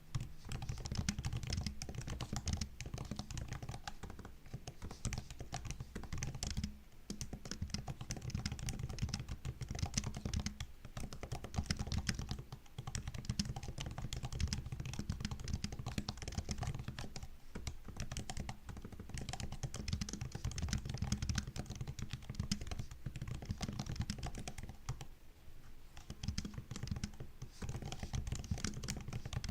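Continuous typing on a MacBook laptop keyboard: rapid, steady key clicks and taps, with a few short pauses between runs.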